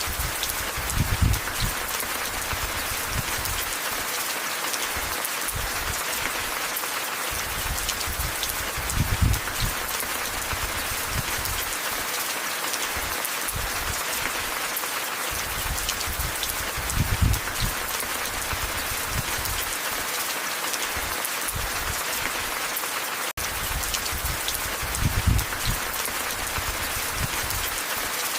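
Steady rain pattering. A low rumble swells briefly about every eight seconds, and the sound drops out for an instant about two-thirds of the way through.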